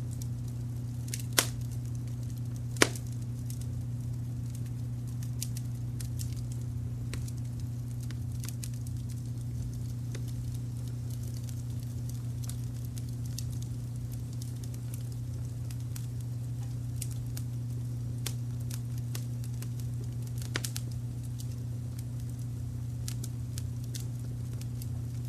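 Wood fire crackling, with scattered sharp pops over a steady low brown-noise rumble. Two louder pops come a second or two in, and another near the end.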